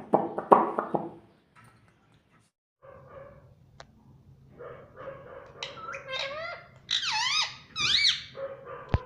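Indian ringneck parrot calling: one loud call with a falling pitch right at the start, then after a short pause a run of high squeaks and chirps that glide up and down, loudest a little past the middle. A sharp click near the end.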